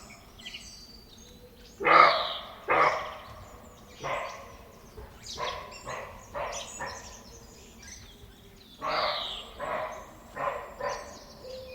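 Deer calling with short, bark-like calls, about a dozen of them in irregular groups of one to three. Faint bird chirps sound in the background.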